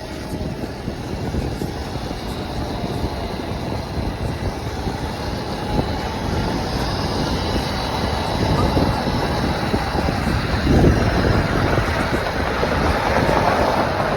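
Steady vehicle and rushing noise while riding through city traffic, with a faint high whine, growing somewhat louder in the second half.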